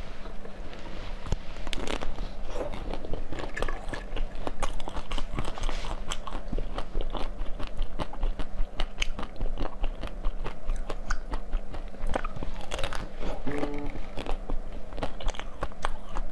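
Close-miked eating: a steady stream of crunchy bites and chewing, full of sharp crackles, as hard, frozen food is bitten and chewed.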